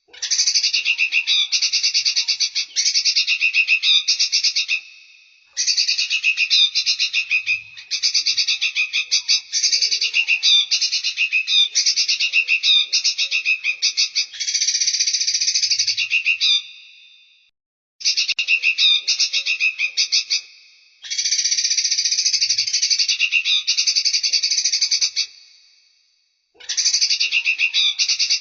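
A looped bird-training recording of a small songbird's calls: rapid, dense chattering trills, high-pitched, in bouts of a few seconds broken by short pauses.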